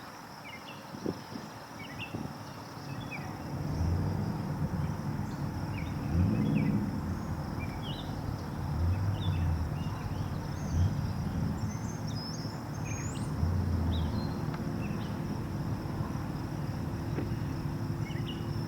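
Outdoor ambience: many short bird chirps over a low, uneven rumble of car engines running, which swells and eases. A faint steady high tone sits under it all.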